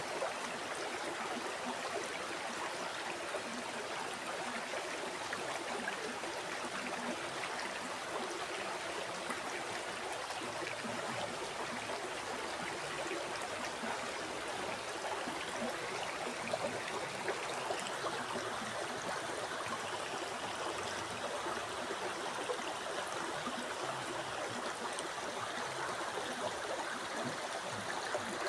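River water flowing and babbling steadily over rocks.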